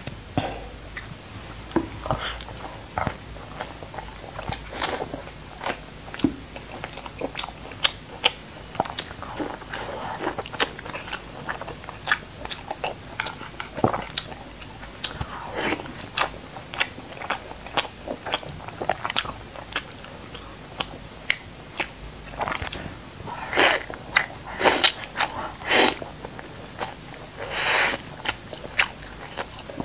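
Close-miked eating of glazed pork belly: irregular wet chewing, mouth smacks and biting clicks, several a second at times, with busier clusters near the end.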